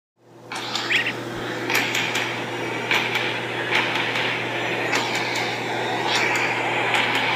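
A steady low hum under a noisy background, with irregular short knocks and clicks about once a second.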